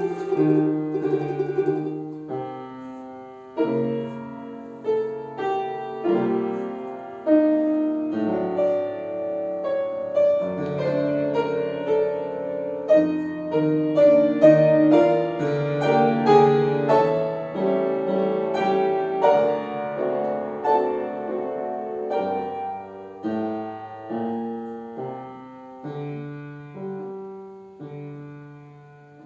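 Piano playing a Russian folk-song arrangement, a busy run of ringing notes that thins out and fades over the last several seconds. A tremolo from a plucked string instrument is heard at the very start.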